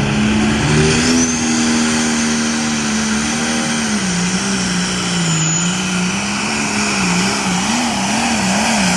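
Pulling tractor's engine running hard at high revs under the load of a pulling sled. Its pitch holds steady, sags about four seconds in, then wavers up and down rapidly near the end.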